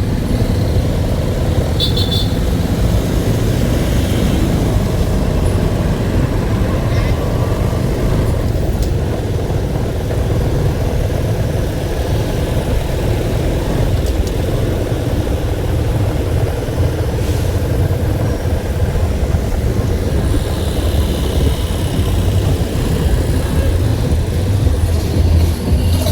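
Steady motor vehicle running noise: an even low rumble that holds without revving up or down.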